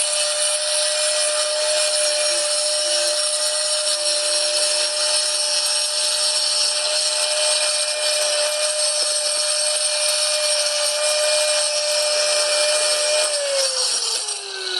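Small angle grinder with a diamond-dust disc running at a steady high whine with a gritty hiss, grinding out the grout in floor tile joints. About thirteen seconds in it is switched off and its whine falls in pitch as the disc spins down.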